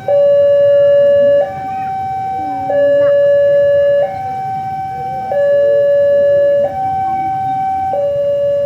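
Electronic two-tone warning siren alternating steadily between a high note and a low note, each held about a second and a half.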